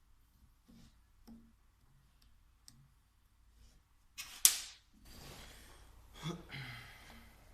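Light clicks of small metal parts and tools being handled on the workbench during a diesel injection pump rebuild. About four seconds in there is a short, loud hiss. A softer rustling haze with a couple of knocks follows.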